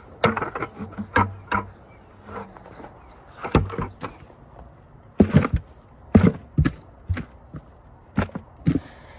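Irregular chopping thuds and knocks from a hand tool working homemade grass-and-leaf compost to fill a grow bag, about a dozen strikes at uneven intervals.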